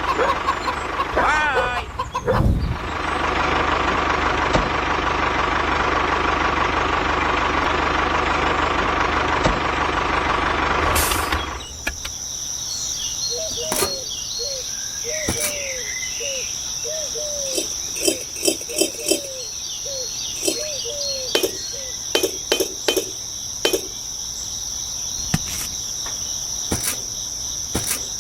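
A motor runs steadily and cuts off abruptly about eleven seconds in. After that, a steady high insect drone like crickets continues, with short falling chirps and scattered clicks.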